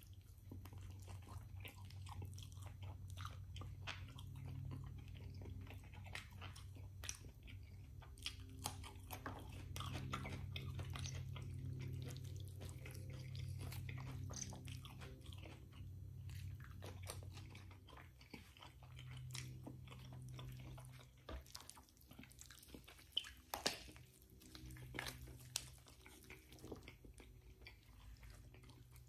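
Close-miked chewing of rotisserie chicken, with irregular wet smacks and clicks of the mouth and fingers, the sharpest a few seconds before the end. A steady low hum runs underneath.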